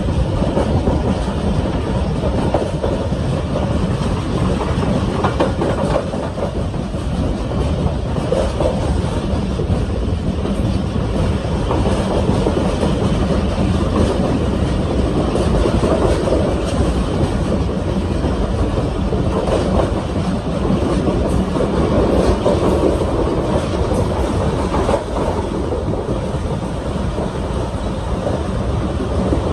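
Pakistan Railways railcar train running on the track: a steady, loud rumble with faint scattered clicks and no pause throughout.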